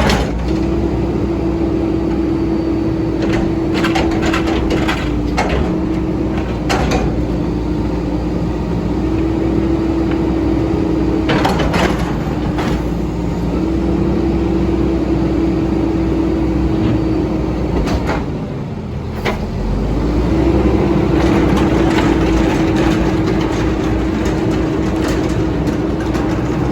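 Mack MR garbage truck's straight-piped diesel running, with a steady tone that breaks off and comes back several times and a few sharp metallic clanks. It dips briefly about two-thirds of the way through, then comes back louder.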